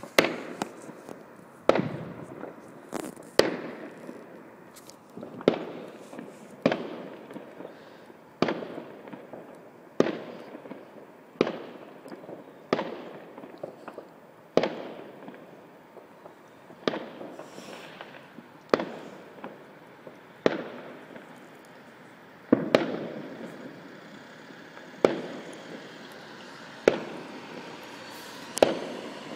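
Fireworks going off in a steady series, a sharp bang about every one and a half to two seconds, each followed by a short echoing tail.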